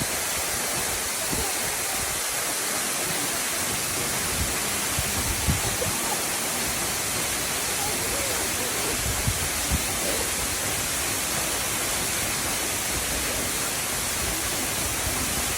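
Minoo Falls, a tall waterfall, pouring into its plunge pool: a steady, even rush of falling water.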